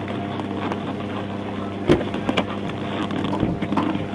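Steady low hum of an idling vehicle engine, with two sharp knocks about two seconds in.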